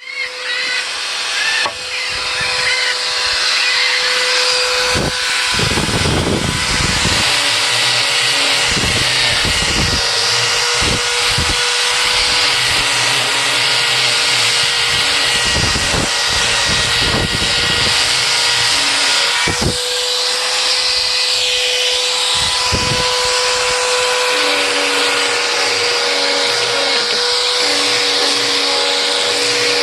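Small electric power tool motor running continuously with a steady whine and hiss. Irregular short knocks and scraping sounds come as the tool works the PVC.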